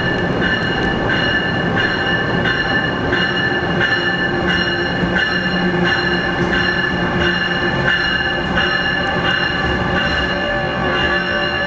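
Amtrak electric train led by an ACS-64 locomotive moving slowly through the station, with a steady ringing that pulses about twice a second.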